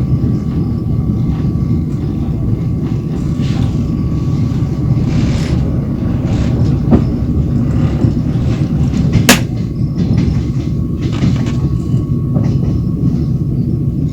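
Train wheels running on the rails, heard from aboard: a steady low rumble with scattered knocks, and one sharp click about nine seconds in.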